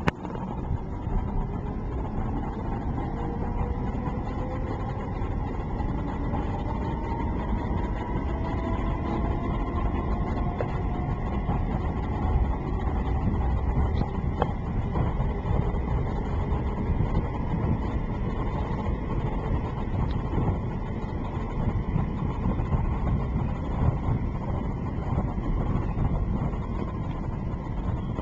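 Train running with a steady low rumble. A faint whine rises slowly in pitch over the first ten seconds or so, then levels off.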